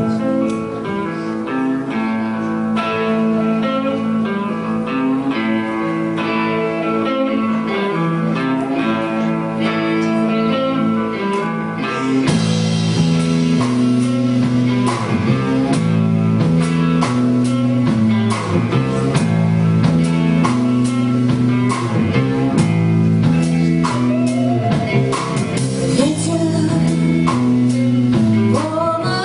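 A live band playing the opening of a song: guitar-led at first, with drums hitting harder from about twelve seconds in.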